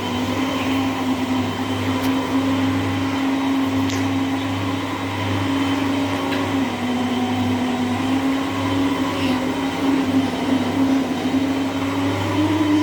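Whirlpool washing machine in its spin cycle: a steady motor whine over a low hum, with a few faint ticks. The whine rises slightly in pitch near the end as the drum speeds up.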